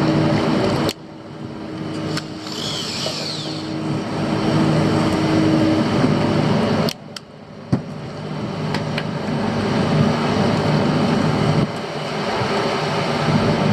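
Fishing boat's engine running steadily, with wind and sea noise; the sound drops off abruptly about a second in and again around seven seconds, then builds back up.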